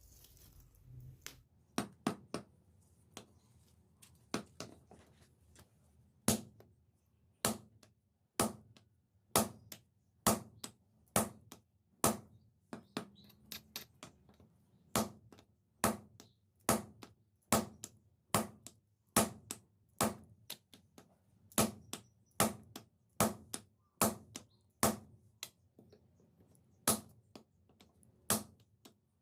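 Hand-hammer blows striking metal. A few irregular knocks come first, then the strikes settle into a steady rhythm of about one a second.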